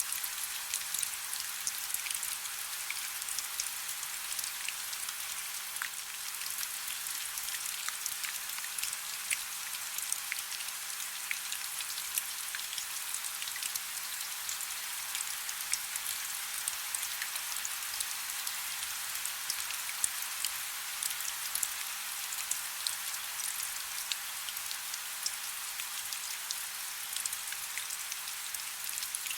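Soft, steady rain: an even high hiss dotted with many small ticks of individual drops.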